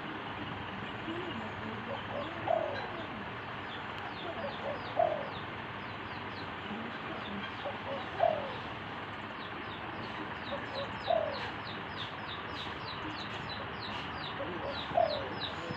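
Spotted dove cooing, a short phrase repeated about every three seconds over a steady background hiss.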